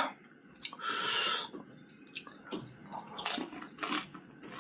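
Close-miked eating of pani puri: a short wet slurp about a second in, then wet chewing with small crisp crunches of the puri shell.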